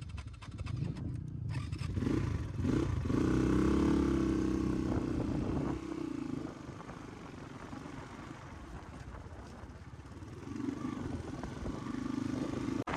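Crossfire dirt bike's engine revving up about two seconds in and holding a steady pull for a few seconds, then dropping back to a low run and picking up again near the end. A few quick clicks and a clatter come at the start.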